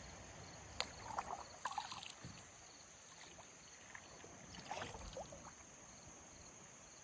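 Faint sounds of a kayak on calm water: light knocks and small water sounds against the hull as it is turned, in a cluster about a second in and another near five seconds, over a steady high-pitched hiss.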